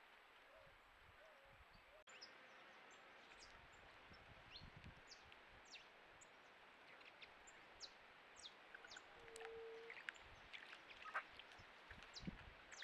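Faint, scattered short bird chirps and calls over a steady background hiss, with one brief low hoot just after the middle.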